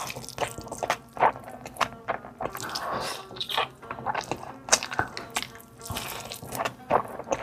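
Close-miked eating: wet chewing and mouth smacking, with many sharp, irregular clicks.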